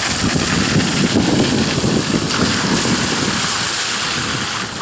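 Car driving along: engine and tyre noise, which eases off about three and a half seconds in.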